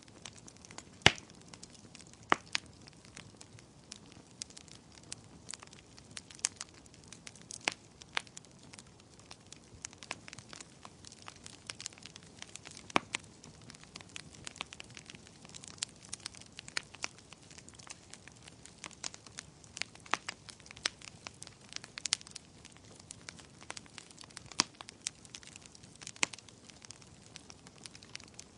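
Wood fire crackling: irregular sharp pops and snaps over a faint low hiss, with a few louder pops about a second in, a little later, and near the middle.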